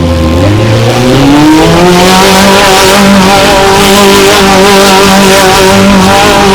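Mini monster truck engine revving: the pitch dips briefly, climbs over about a second and a half, then holds steady at high revs.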